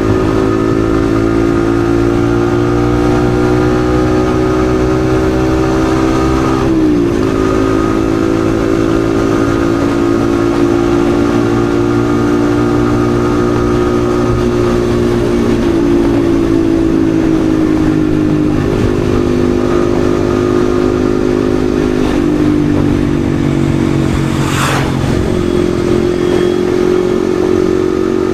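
Yamaha XSR155's single-cylinder 155 cc engine running at a steady cruise under the rider, with wind noise. Its note holds mostly level, breaks and jumps briefly about seven seconds in, then shifts slightly a few more times.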